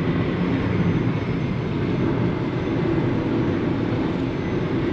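Steady road and engine noise inside a small car's cabin while driving at highway speed: an even low rumble with tyre hiss.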